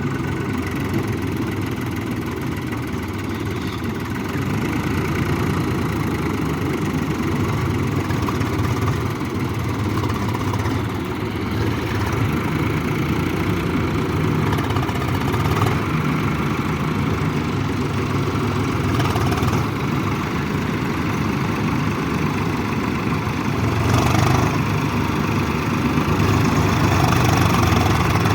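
Tractor diesel engine running steadily, a little louder from about 24 seconds in.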